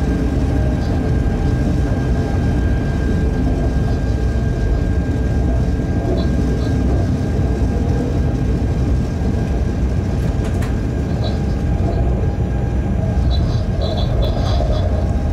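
Freight train running at speed, heard from the driver's cab: a steady loud low rumble of the locomotive and wheels on the rails, with a faint steady high whine. A few short high chirps come near the end.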